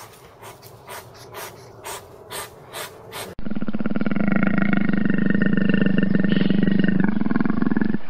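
Soft scratching clicks, about two a second, from a porcupine foraging on rock. About three seconds in these give way abruptly to a leopard's long, loud, rapidly pulsing growl.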